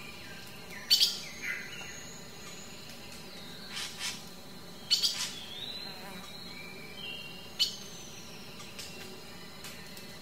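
Birds chirping: sharp short chips, some in quick pairs or triples, with brief whistled notes in between.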